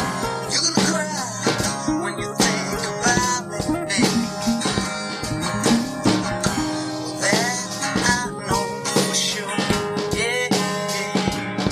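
Blues-rock band music: guitar and drums playing, with a lead line of notes that bend up and down in pitch.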